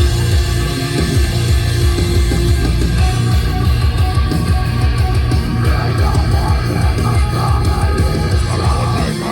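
Live rock band playing loud, heavy music: electric guitar over a dense low end of bass and drums.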